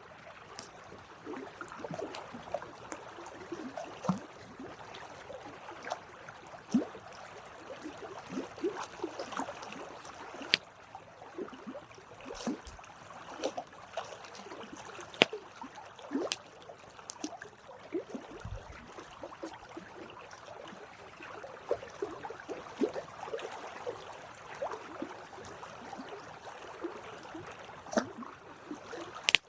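Wood campfire burning, crackling steadily with irregular sharp pops over a soft hiss and flutter.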